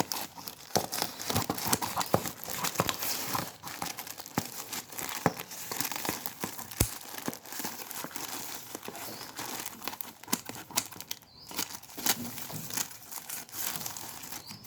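Packaging of a mail-order parcel crinkling, rustling and tearing as it is handled and unwrapped by hand, with many sharp crackles and irregular rustles.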